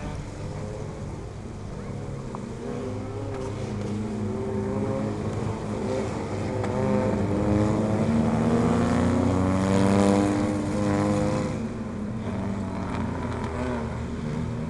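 Engines of several Lightning Bug race cars running at low speed on a pace lap, their pitches overlapping and growing louder as the pack passes about ten seconds in, then fading away.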